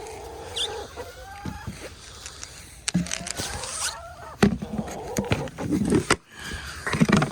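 Hens giving soft, wavering low calls, broken by a few short, loud rustling scrapes as a hen reaches up and grabs at a coat sleeve. The loudest scrapes come past the middle and again just before the end.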